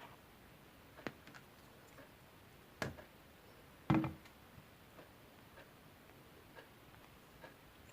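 Green slime being played with by hand: scattered small clicks and pops, with louder squelching pops about one, three and four seconds in, the last one the loudest.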